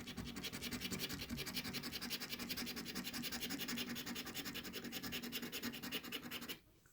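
Coin rapidly scratching the latex coating off a scratch-off lottery ticket, in quick even strokes, about eight to ten a second; it stops abruptly near the end.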